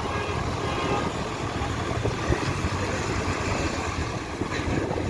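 A heavy road vehicle's engine running steadily at low revs.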